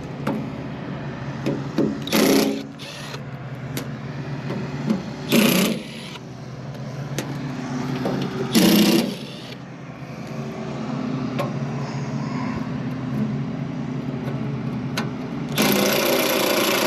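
Cordless power driver with a hex nut-driver bit spinning out the sheet-metal panel screws of a rooftop AC unit in short bursts: three brief runs, then a longer one near the end, over a steady machine hum.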